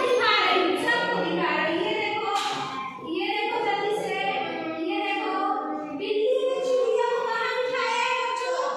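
Young children's voices in sing-song unison, several voices together, with a woman's voice among them.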